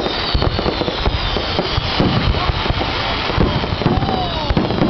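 Fireworks going off in a dense, continuous barrage of bangs and crackling pops.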